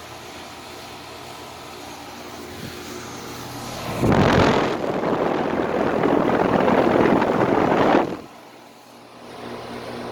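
1996 Bryant AQS heat pump outdoor unit running in cooling mode, a steady hum of compressor and fan. About four seconds in, a loud rushing noise covers it for about four seconds and then cuts off suddenly.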